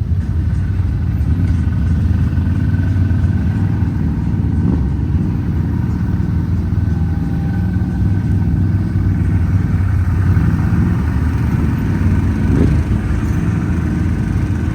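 Off-road vehicle engine running steadily, a continuous low-pitched engine sound with no letup.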